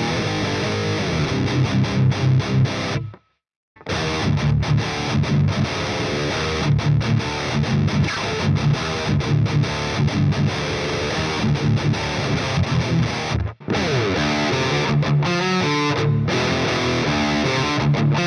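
Epiphone Widow Les Paul Custom electric guitar played with heavy distortion, chugging riffs that stop dead for about half a second around three seconds in, then carry on with another brief break near the end.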